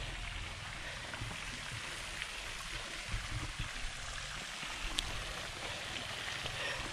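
Steady rushing hiss of water from a pond fountain spraying and splashing back onto the pond, with a single small tick about five seconds in.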